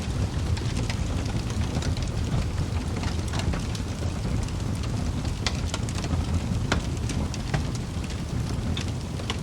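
Wood fire burning in a fireplace: a steady low rumble of flames with logs crackling and popping irregularly throughout, a few pops sharper than the rest.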